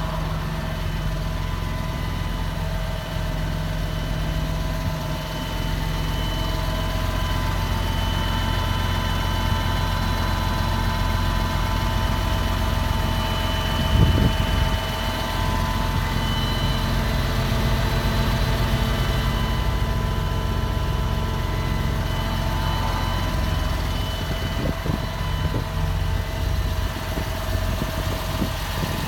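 Massey Ferguson 6480 tractor's six-cylinder diesel engine idling steadily, with a short thump about halfway through.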